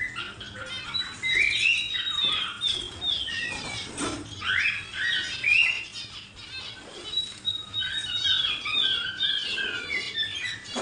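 A crowd of caged pet birds chirping and squawking together, many short sliding calls overlapping without pause, with one sharp knock about four seconds in.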